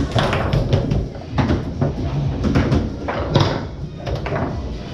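Foosball in play on a Tornado table: a fast, irregular string of sharp knocks as the ball cracks off the men and the table walls and the rods slide and bang against their stops.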